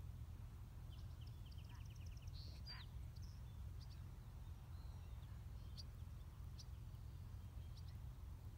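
Faint field ambience: a steady low rumble, with a short fast bird trill about a second in and a few scattered high bird chirps after it.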